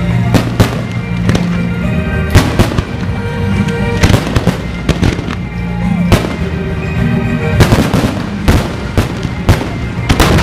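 Fireworks going off in a rapid, irregular string of sharp bangs over music playing.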